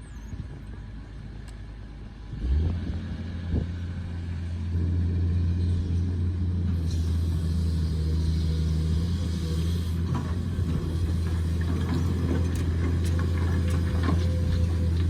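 Excavator's diesel engine running with a steady low drone that comes up sharply about two and a half seconds in, with scattered short knocks and clanks over it.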